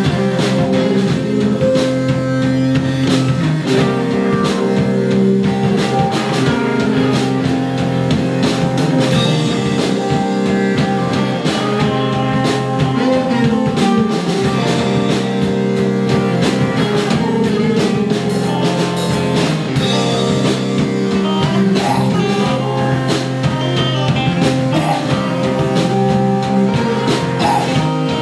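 A live rock band playing an instrumental passage: electric guitar with drum kit and bass, held guitar notes over a steady beat.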